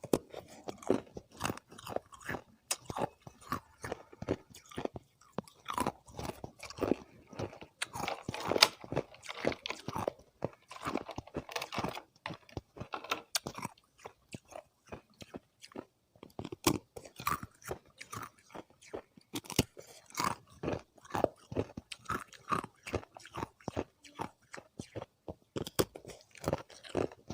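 Close-up chewing and biting of thin disks of ice, a continuous run of sharp, irregular crunches and crackles.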